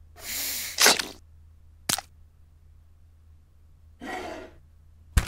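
Foley for a syringe of red liquid being pressed into a Lego-brick fish: a hiss of about half a second, then a sharp click, and a second short click about a second later. About four seconds in there is a brief rustle, and a sharp knock near the end.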